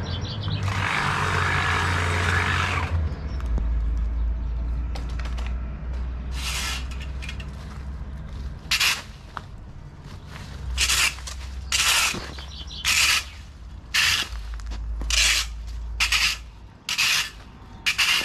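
A rushing hiss lasting about two seconds, then repeated short scraping strokes about once a second, typical of hedge clippings being swept up with a stiff broom.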